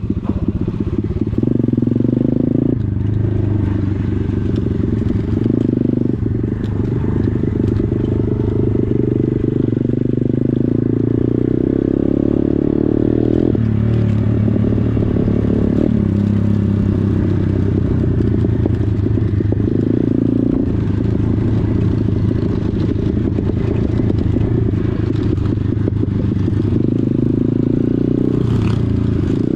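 Pit bike engine running continuously, its pitch stepping up and down every few seconds as the throttle changes, with clattering and scraping mixed in.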